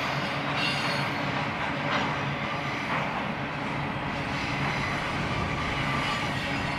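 Double-stack intermodal container train rolling past: a steady rumble of steel wheels on rail, with a few knocks from the cars over the track.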